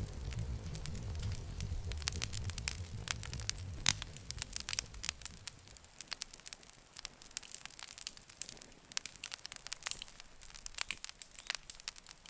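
Wood campfire crackling, with frequent sharp pops and one louder pop about four seconds in. A low rumble under the crackle drops away about halfway through.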